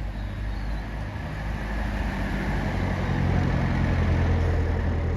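A road vehicle's engine running at low speed with a steady hum, growing louder over the first four seconds and then easing slightly.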